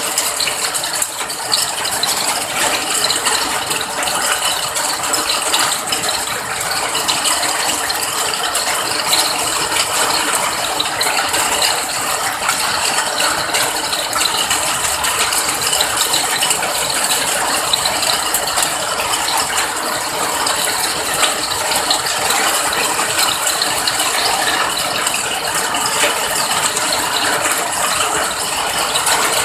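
Steady rain, a dense, even patter of many close drops ticking on a hard surface.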